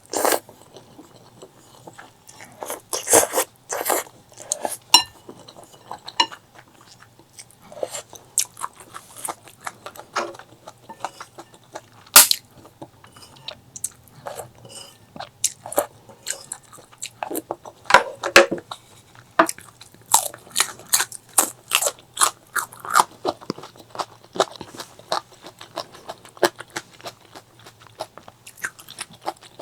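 A person eating: irregular crunching bites and chewing of food, with one sharp loud crunch about twelve seconds in.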